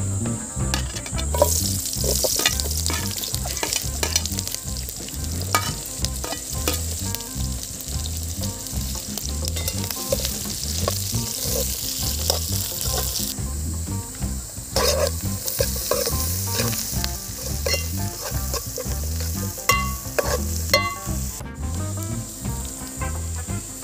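Sliced onions and green chillies frying in hot oil in an aluminium pot, a steady sizzle that starts about a second and a half in, with the clicks and scrapes of a spoon stirring against the metal. A steady low beat, likely background music, runs underneath.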